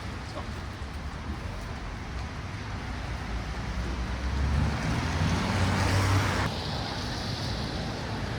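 Road traffic noise, a steady rumble and hiss that swells as a vehicle passes, then drops off abruptly about two-thirds of the way through.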